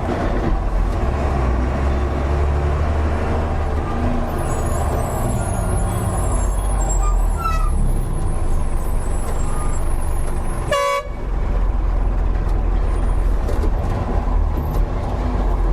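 Truck engine and road rumble, heard while riding in a truck on a highway, with a brief horn toot about eleven seconds in.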